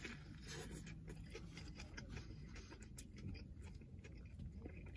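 Faint chewing of a mouthful of burger, with soft wet mouth clicks throughout.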